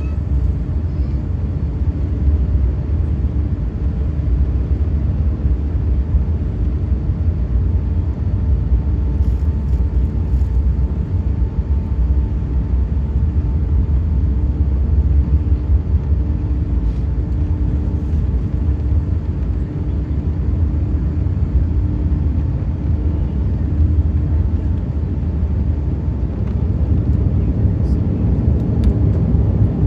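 Steady low rumble of an Airbus A380-800 heard from inside the passenger cabin, engine and airflow noise with a faint steady hum over it.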